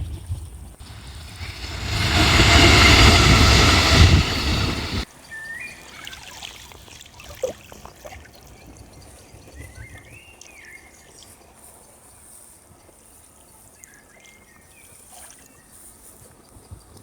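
A loud rushing noise starts about a second in and cuts off suddenly near five seconds. After it comes a quiet outdoor background with a few short bird chirps.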